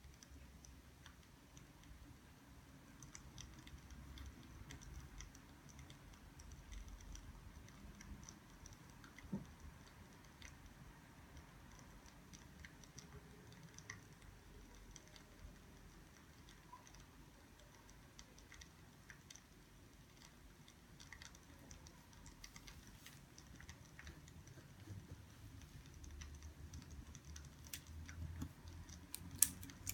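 Faint, irregular crackling of burning firewood: sparse small clicks and ticks over a low rumble, with a sharper crack near the end.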